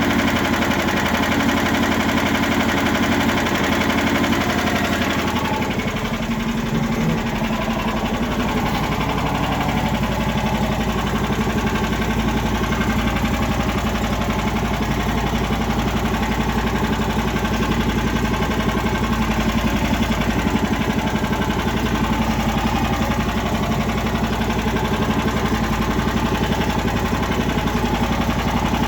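Lifan engine on a homemade karakat running on its first start; about five seconds in its speed drops and it settles into a steady idle.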